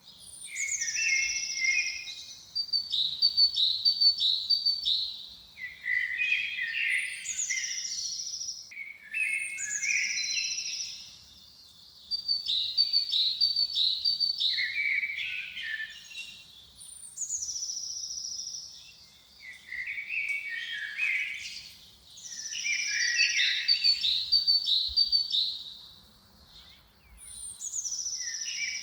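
A songbird singing the same complex phrase over and over, with short pauses between phrases. Each phrase opens with a high falling whistle and runs into quick trills and chirps.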